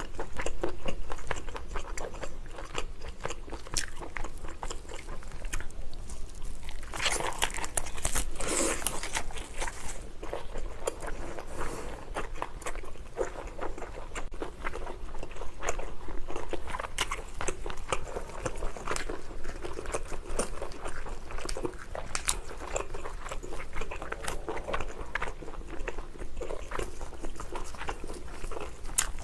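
Close-up eating sounds: a person biting into and chewing lobster, with many sharp clicks and cracks throughout, busiest about a quarter of the way in.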